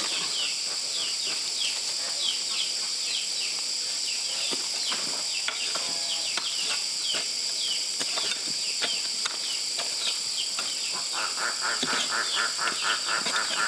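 Steady high-pitched insect chorus, with many short falling chirps and a few scattered clicks. About eleven seconds in, a rapid pulsing call of about four to five pulses a second joins in.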